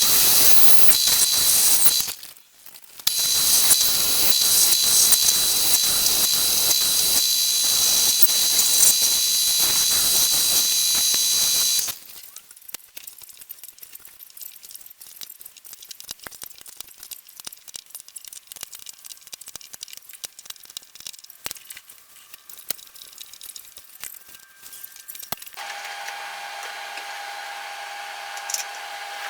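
A lawn tractor tyre being deflated: air hissing out loud and steady, with a short break about two seconds in, stopping about twelve seconds in. Then quieter scattered clicks and knocks, and near the end a steady hum starts.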